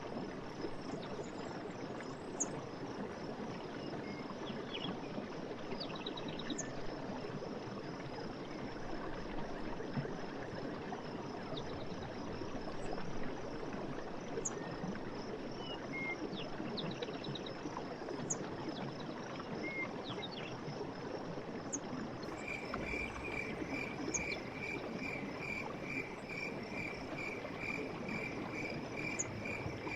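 Forest stream running steadily, with an insect trill and scattered short bird chirps. About three-quarters of the way in, a repeated chirping note starts, about three a second.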